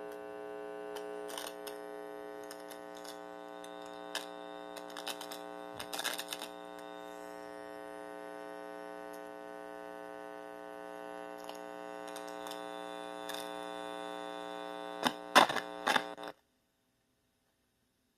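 Guitar amplifier with bare wires on its input, giving a steady electrical buzz with scattered crackles and pops. Louder pops come near the end, then the sound cuts off abruptly.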